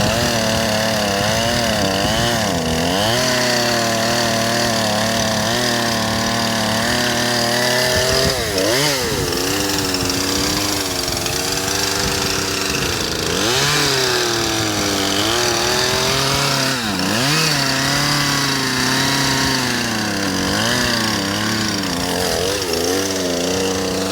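Two-stroke Poulan Pro chainsaw running continuously. Its engine speed repeatedly sags and picks back up, so the pitch dips sharply and recovers every few seconds. It is a barely working saw.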